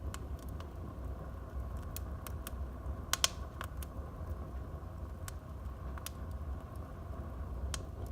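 Wood fire burning in a fireplace: a low steady rumble of flames with scattered sharp crackles and pops, and a louder cluster of cracks a little after three seconds in.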